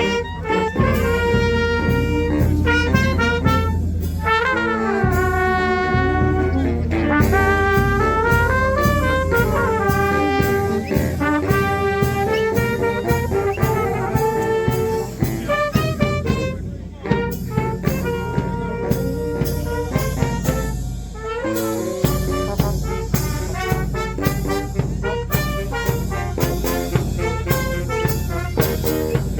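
Fanfare band of brass and drums playing a lively tune: brass carries the melody over a steady, evenly spaced drum beat.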